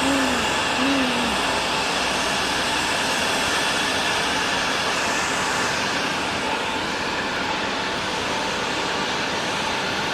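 Jet airliner engines running, a steady rushing noise with a faint high whine. There are a couple of short rising-and-falling tones in the first second.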